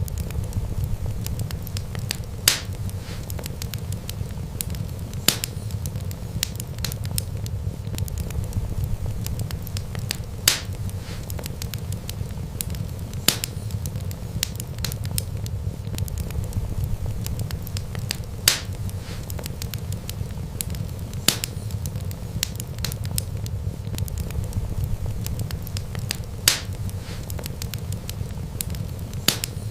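Wood fire burning with a steady low rumble and constant light crackle, broken by sharp, loud pops every few seconds.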